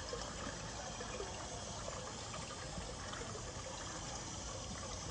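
Steady rushing background noise, watery in character, with a few faint clicks.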